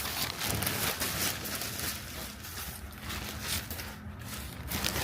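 Irregular rustling and scraping of parts and packaging being handled, over a steady low hum.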